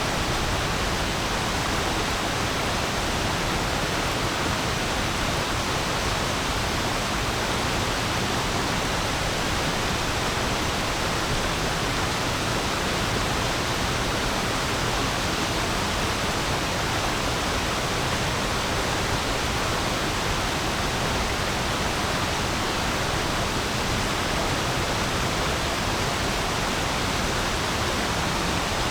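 A stream's water flowing over stones: a steady, unbroken rush with no birds or other sounds standing out.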